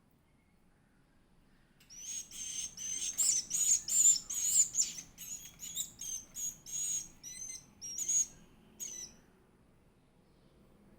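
Edible-nest swiftlet chick giving a rapid series of shrill, high chirps with quick pitch wiggles, typical begging calls while being fed. The calls start about two seconds in and stop about nine seconds in.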